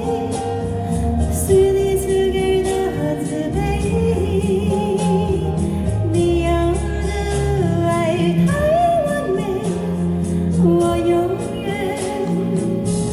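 Live performance of a Mandarin pop ballad: a female voice singing a smooth melody over a full backing track.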